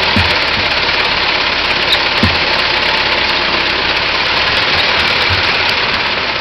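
1909 Ford Model T's four-cylinder flathead engine running steadily, with an occasional low thump, the loudest about two seconds in.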